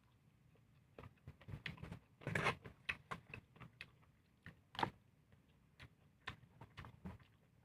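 Close-miked eating sounds: a person chewing a mouthful of bopis and rice, with irregular wet clicks and lip smacks, a louder cluster about two seconds in and another sharp smack near five seconds.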